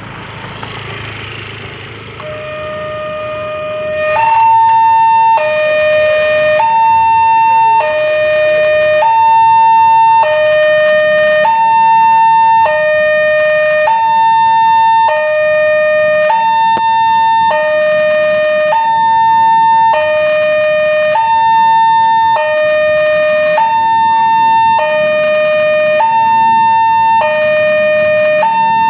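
Electronic warning alarm of a Wanteck railway level-crossing gate sounding a two-tone signal, high and low notes switching about every second and a quarter, which warns that a train is coming. It starts faintly a couple of seconds in over road traffic noise and turns loud about four seconds in.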